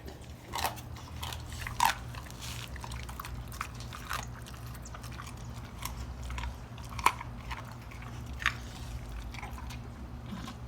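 Large dogs chewing raw chicken, bones crunching and cracking in irregular sharp snaps, the loudest about two seconds and seven seconds in.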